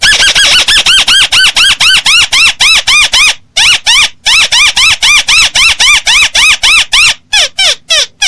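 Recorded crake call played loud as a bird-trapping lure: a fast run of arched, squeaky notes at about four a second. After a short break near the end come a few shorter falling notes.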